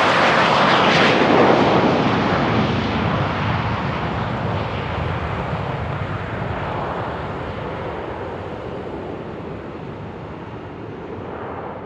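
Business jet's engines going past with a loud roar that peaks about a second in and then fades steadily as the aircraft moves away down the runway.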